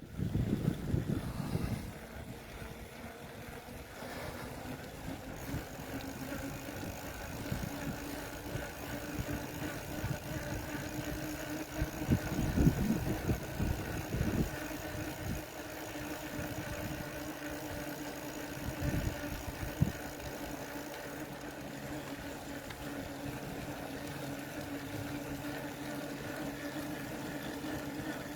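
A vehicle engine running with a steady hum. Louder low rumbles come in around twelve to fourteen seconds in and again near nineteen seconds.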